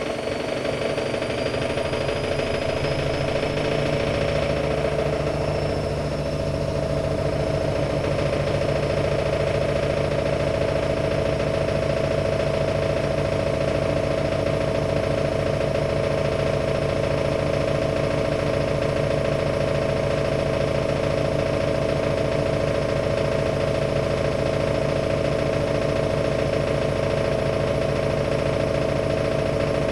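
AEG Lavamat Turbo washer-dryer spinning its drum: a motor whine rises in pitch over the first few seconds as the spin builds up speed, then holds as a steady, loud machine hum.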